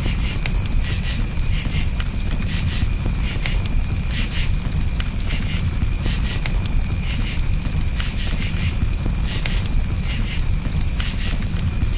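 Crickets chirping in a steady pulsing rhythm over a crackling campfire, with scattered sharp pops and a constant low rush from the flames.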